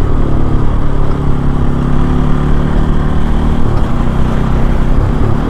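Bajaj Pulsar NS200's single-cylinder engine running under way at a fairly steady speed, its pitch shifting slightly near the end.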